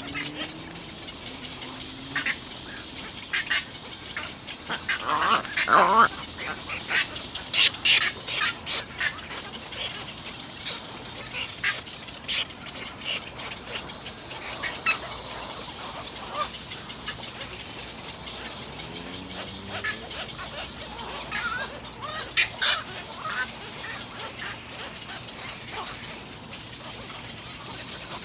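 Little egrets calling at the nest: irregular calls mixed with many sharp clicks, busiest and loudest around six to nine seconds in and again about 22 seconds in, including a call that falls in pitch near six seconds.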